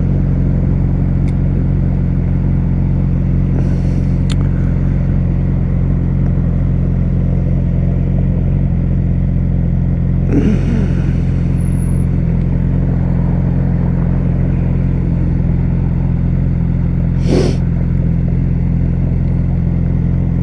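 Yamaha R6 sport bike's inline-four engine idling steadily at an unchanging pitch, with a couple of brief short sounds about ten and seventeen seconds in.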